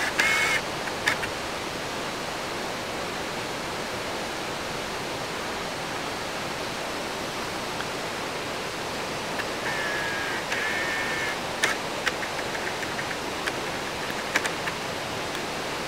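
Steady, even rush of falling water from a mountain waterfall, with a few faint clicks over it.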